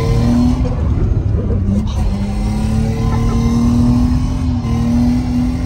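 Mercedes car engine held at high revs, heard from inside the cabin, its pitch rising a little about two seconds in and then staying up, over a heavy low rumble of the car on the snowy road.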